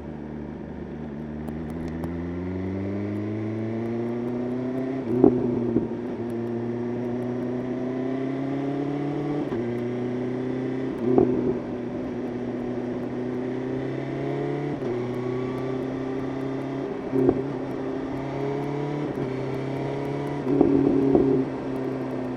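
BMW S1000RR inline-four engine pulling at highway speed: its pitch climbs over the first few seconds, then holds fairly steady with a few brief dips. Four short, louder bursts break through, the last one longer near the end.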